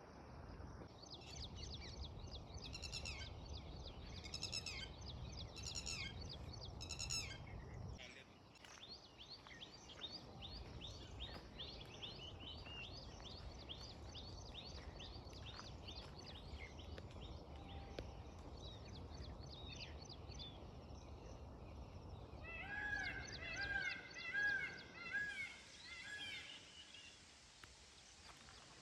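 Birds chirping and calling: short repeated high notes, a long run of rapid chirps through the middle, and louder arched calls near the end, over a low steady rumble.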